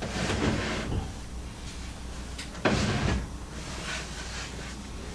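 Handling noise from a wooden speaker cabinet being moved about: a scraping scuffle in the first second, then a sharper knock about halfway through.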